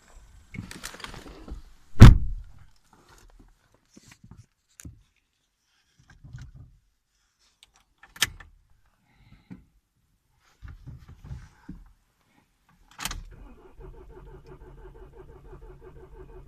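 Opel Astra K Sport Tourer's door shut with one loud thump about two seconds in, after some rustling. Scattered clicks and light knocks follow, then a sharp click and a faint steady hum near the end.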